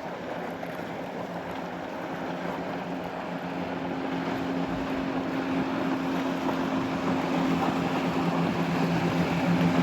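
A motorboat's engines running at a steady pitch as the boat draws closer: a low, even hum that grows gradually louder, over a wash of wind and water noise.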